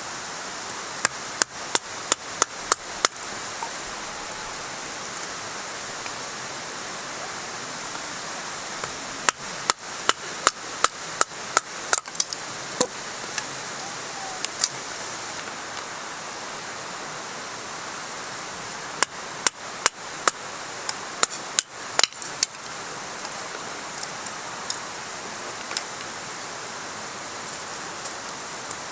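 Batoning firewood: a baton striking the spine of a blade driven into a log, in quick runs of sharp knocks about three a second, three runs with pauses between. A steady rushing noise lies underneath.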